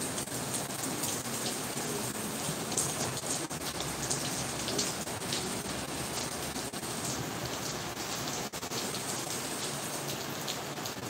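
Heavy rain falling steadily: an even hiss with many small drop ticks pattering on surfaces.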